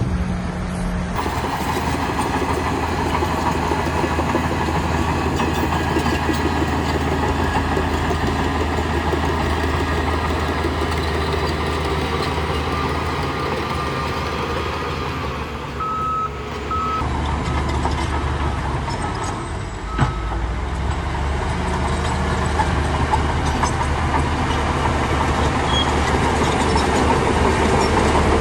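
Heavy earthmoving machinery's diesel engine running steadily under work. Just past halfway, a few short high beeps of a reversing alarm sound, followed soon after by a brief knock.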